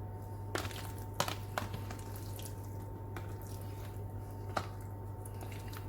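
Ground pepper being shaken onto raw chicken: a few light, irregular taps over a steady low hum.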